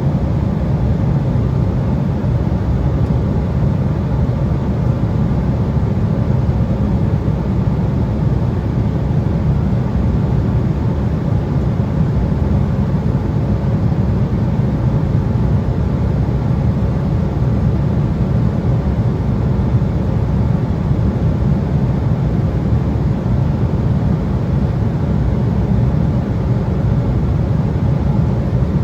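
Cabin noise of an Embraer 175 regional jet at cruise: a steady low rumble of airflow and its twin CF34 turbofan engines, with a faint steady hum higher up.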